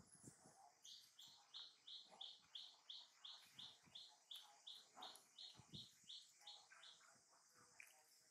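Faint bird call: one short high note repeated evenly about three times a second for some six seconds, then stopping.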